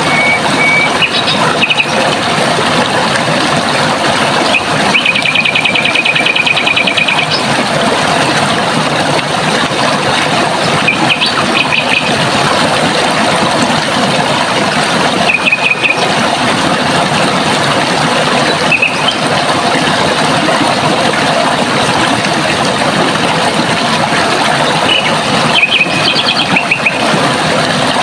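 Running water flowing steadily. Small birds call over it: a fast trill lasting about two seconds some five seconds in, then short chirps now and then.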